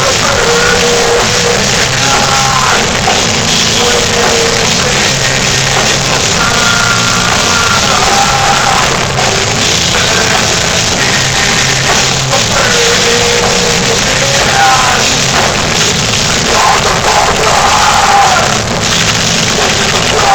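Heavy metal band playing live: distorted guitars and a drum kit in a thick, loud wash, with a higher melodic line of held, bending notes on top. The recording has poor sound quality.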